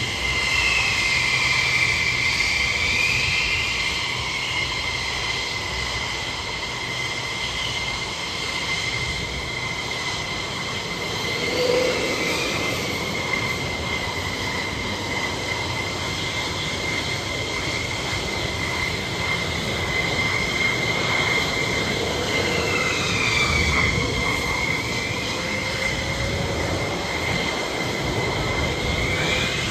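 Aircraft engine noise with a steady high-pitched whine over a rushing noise; higher tones bend down and back up as aircraft pass, twice in the first few seconds and again a little over twenty seconds in.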